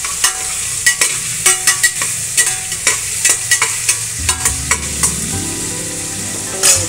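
Chopped onions, garlic and tomato frying with mustard seeds in hot oil in a steel pressure cooker: a steady sizzle, with a spoon stirring and clicking against the pot, many clicks in the first four seconds and a loud clatter near the end.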